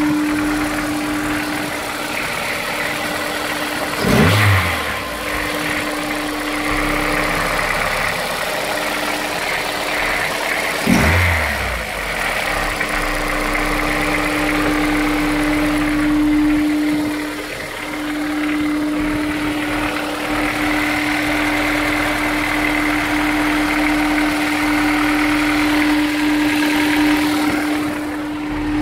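Honda S2000 four-cylinder engine idling and blipped twice, about 4 and 11 seconds in, the pitch jumping up and falling straight back each time. The owner suspects rod knock.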